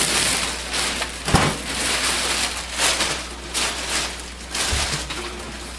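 Plastic packaging crinkling and rustling as it is handled and pulled about, with a sharp knock about a second and a half in.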